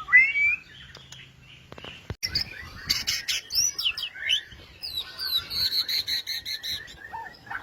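White-rumped shama singing: clear whistled notes that glide up and down, sharp clicking notes, then a fast, evenly repeated run of high notes near the end.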